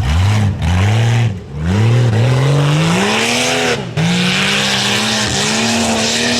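A tuff truck's engine revving hard in repeated climbs, its pitch dropping sharply three times and then held high near the end, with a rushing hiss of tyres on the dirt course building in the second half.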